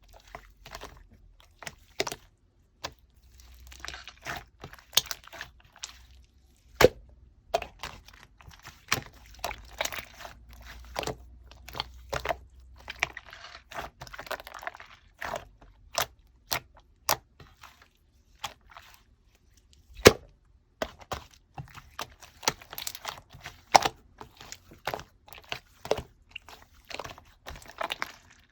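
Hands squishing and poking a cold half-and-half clear slime straight from the fridge, giving many sharp sticky pops and clicks with softer stretches of squishing between them.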